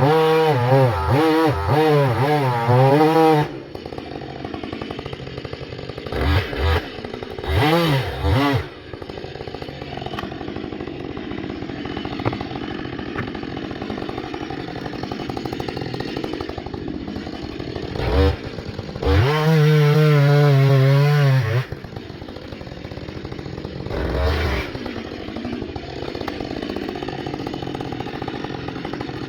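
Two-stroke chainsaw at full throttle with a wavering pitch for the first few seconds, then dropping to idle. It is blipped twice, run at full throttle again for about two seconds past the middle, and blipped once more, idling in between.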